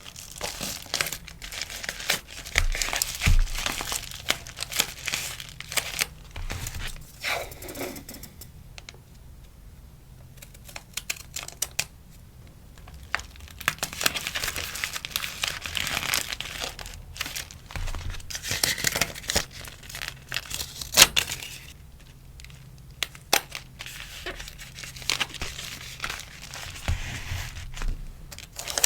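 Close-up rustling, crinkling and tearing of paper and plastic packaging as stickers are packed for an order, with scattered light taps and clicks. One sharp tap about two-thirds of the way through is the loudest sound.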